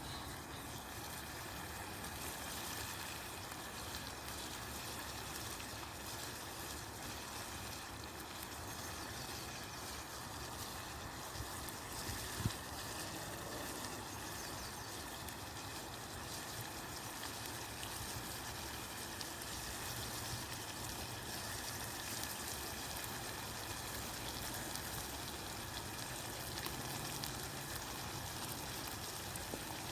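Chicken, mushrooms and garlic sizzling steadily in a pan over a campfire, with a single small click about twelve seconds in.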